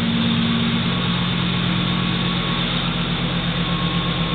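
Ford F-150 with an aftermarket Flowmaster exhaust idling steadily; the engine note settles a little lower about a second in.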